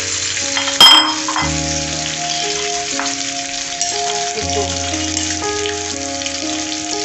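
Hog plums and whole spices frying in mustard oil in a pan, a steady sizzle. A single sharp metallic clink about a second in.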